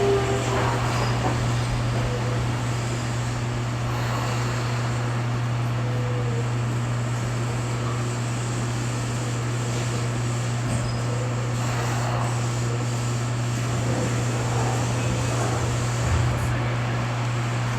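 Inside a Keio 8000 series electric train car: a steady hum and rumble, with a falling motor whine fading out right at the start.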